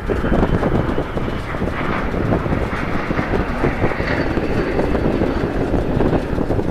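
Strong wind buffeting the microphone: a loud, continuous rumbling flutter. A faint high whine comes in about four seconds in.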